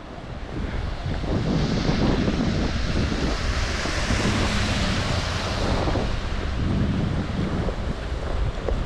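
Steady rushing wind buffeting the microphone while the rider is towed along at speed.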